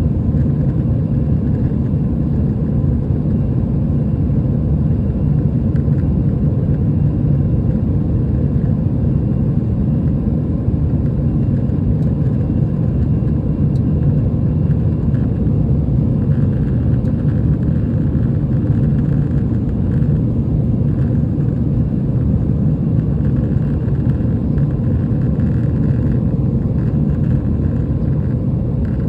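Steady engine and airflow rumble of an Airbus A320, heard inside the passenger cabin.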